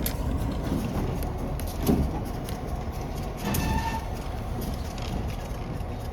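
Steady low vehicle rumble, with a sharp knock about two seconds in and a brief tone a second and a half later.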